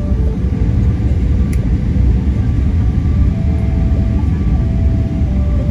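Steady low rumble of a jet airliner's engines and airflow, heard from inside the cabin.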